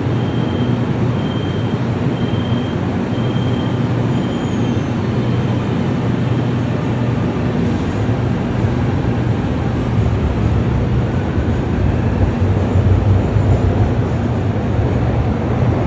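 Train running with a steady rumble and rush. A string of about six short high beeps sounds about once a second and fades out within the first five seconds.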